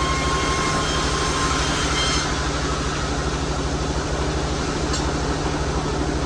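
Sawmill machinery running steadily with a low rhythmic throb, a thin high whine over the first two seconds that cuts off suddenly.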